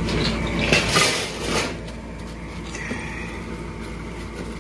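A few short knocks and rustles of handling, then a steady low hum.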